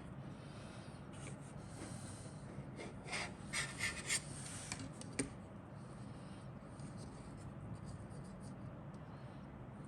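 Plastic model kit parts and packaging being handled: soft rubbing and rustling, with a cluster of louder crinkles and clicks about three to five seconds in.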